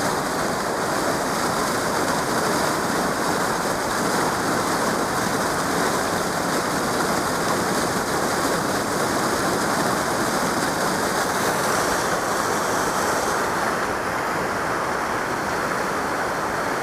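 Steady, loud rush of glacial meltwater from a waterfall and its stream.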